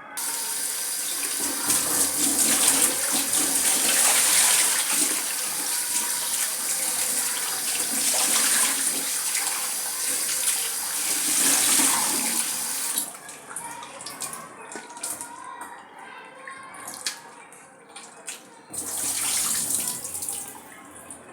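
Water running from a tap into a sink, cut off about two-thirds of the way through, followed by light clattering, then running again briefly near the end.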